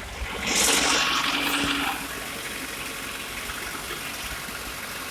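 Dump truck with its PTO engaged to raise the bed: a loud rush of hissing air about half a second in, lasting about a second and a half, then the engine running steadily.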